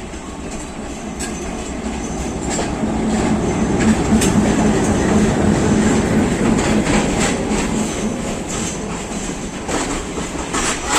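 Passenger train running on the track, its wheels clicking over rail joints, with a steady low hum. The sound swells to its loudest about halfway through and then eases off.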